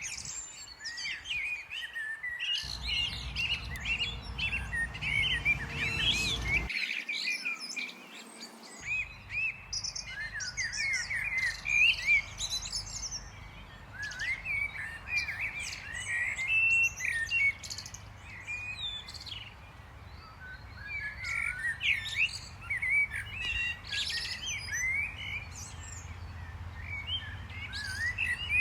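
Small songbirds chirping and twittering, many short overlapping calls. A low background rumble underneath changes abruptly a few times in the first nine seconds.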